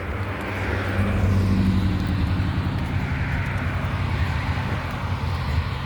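Road traffic passing close by: a vehicle's engine and tyre noise swells to its loudest a second or two in, then a steady traffic hum continues.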